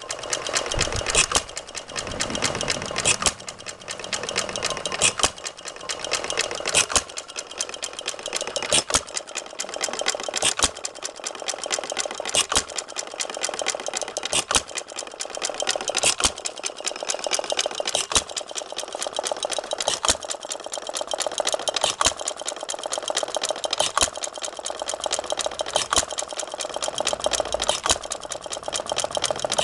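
Briggs & Stratton FH single-cylinder engine, converted to hit-and-miss governing, running on buzz-coil and battery ignition: a steady fast clatter with a sharp firing bang about every two seconds as it fires and then coasts.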